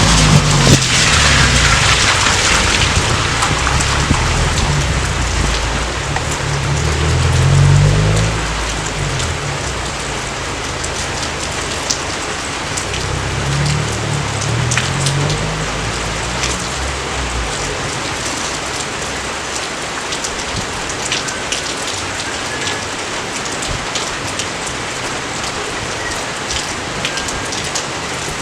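Steady heavy rain falling, with scattered drop clicks. A low rumble swells and fades a few times in the first half and dies away about halfway through, like rolling distant thunder.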